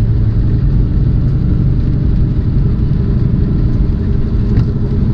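Tractor-trailer's diesel engine running steadily while driving, a low even drone heard from inside the cab.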